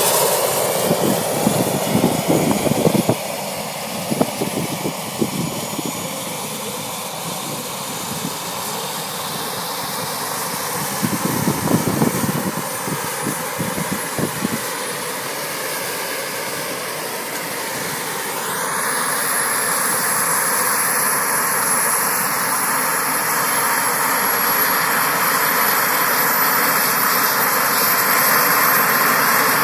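Radio-controlled model helicopter flying, its motor and rotor whine steady, then rising in pitch and getting louder about eighteen seconds in. Gusty buffeting on the microphone runs through the first half.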